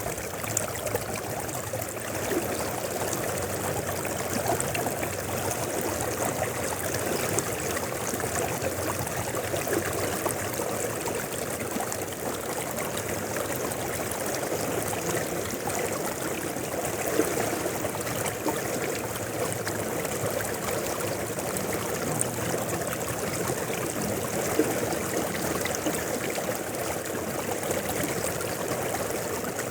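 River water flowing steadily from the mountains, an even, unbroken rush of water with small scattered splashes.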